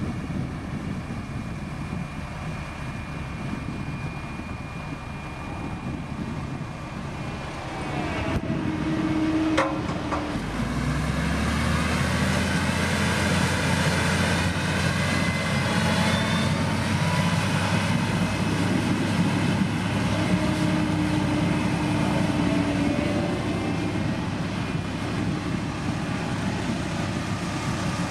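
Motor grader's diesel engine running under working load; about ten seconds in it grows louder and settles into a steady deep drone, just after a sharp click.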